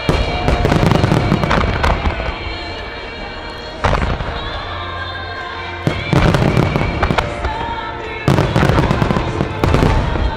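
Fireworks starmine of No. 8 (about 24 cm) shells firing in a rapid barrage: dense crackling and booming bursts, with fresh surges about 4, 6 and 8 seconds in. Music plays underneath.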